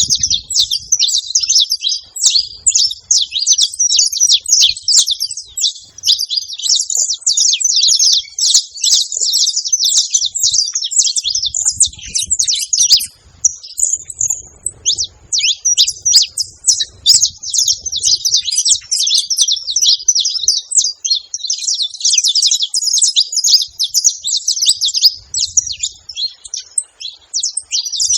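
Saffron finch (canário-da-terra) singing a long, fast stream of high, chattering notes almost without break, with a short pause about halfway through.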